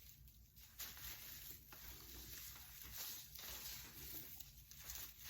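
Faint rustling of raffia strands being handled and pressed into place, a few soft rustles over a quiet hiss.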